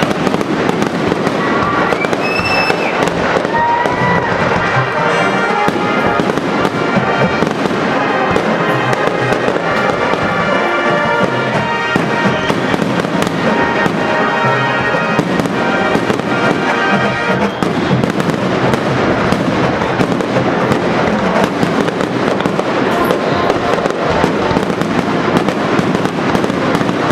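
Fireworks display going off continuously, a dense run of crackles and bangs, with whistling glides early on.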